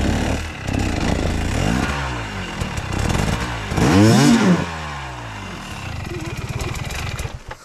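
Off-road dirt bike engine revved up and down in repeated bursts, the hardest rev about four seconds in, then cutting out near the end.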